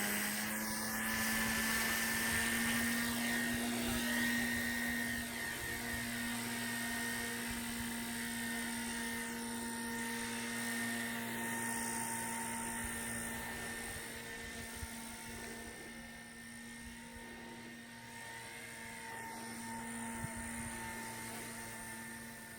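Align T-REX 150X micro electric RC helicopter in flight: a steady high-pitched whine from its main and tail motors and rotors, its pitch wavering slightly. It grows fainter in the second half.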